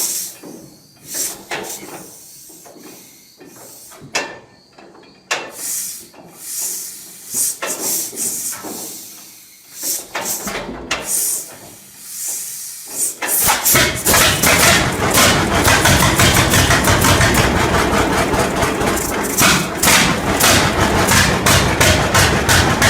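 Scattered irregular knocks and clicks. About halfway through, an old tractor engine starts and keeps running loudly with a rapid, rough beat.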